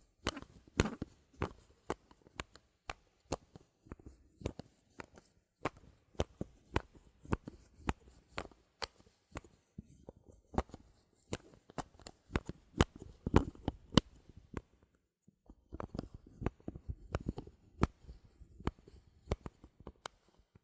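Bottle caps being clicked and tapped in a fast, irregular run of sharp clicks, several a second, with a short pause about three-quarters of the way through.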